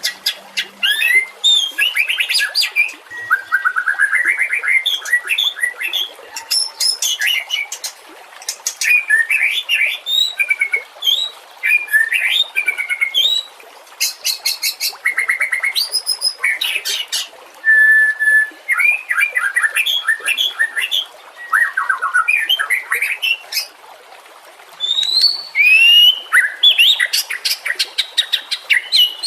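White-rumped shama singing continuously: a varied run of clear whistles, fast trills and chirps, with brief pauses between phrases and one short held whistle about two-thirds of the way through.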